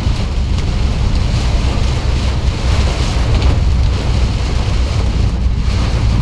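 Storm wind buffeting the microphone with a steady low rumble, over the hiss of heavy rain during a thunderstorm.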